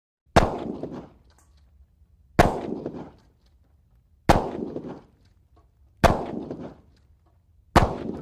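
Five sharp bangs, one about every two seconds, each with a short fading tail.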